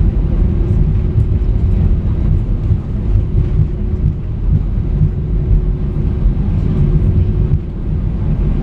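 Steady low rumble of an Airbus A319-131 passenger cabin on the ground after landing, with a faint steady hum throughout.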